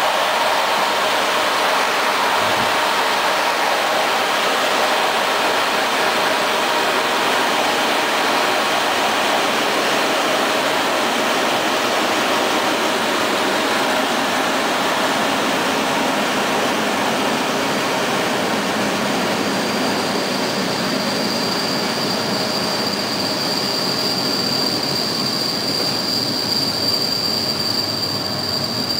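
Passenger train behind an EU07 electric locomotive running on the rails, a steady loud rush of rolling noise. A little past the middle a thin high wheel squeal sets in and holds, growing stronger toward the end.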